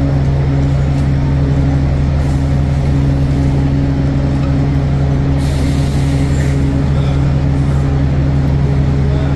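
City bus engine running steadily, a low drone with a constant hum, heard from on board. About five and a half seconds in, a short burst of hiss lasts about a second.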